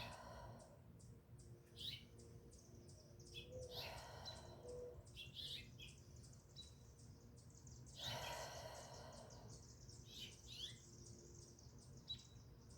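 Faint outdoor ambience with small birds chirping now and then in short high calls, and a soft rush of noise about eight seconds in.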